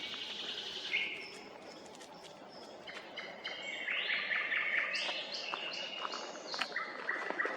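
Songbird singing phrases of quickly repeated notes, the densest run a few seconds in, with other small birds calling around it.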